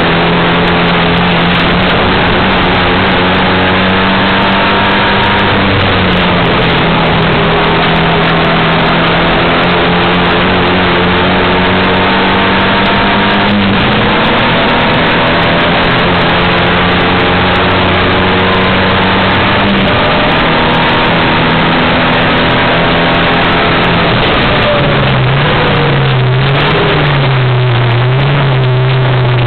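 Volkswagen Golf 5 GTI race car's turbocharged 2.0-litre four-cylinder engine, heard from inside the cabin, running hard under racing load. Its pitch holds for several seconds at a time and shifts in steps, then wavers up and down near the end, over heavy wind and road noise.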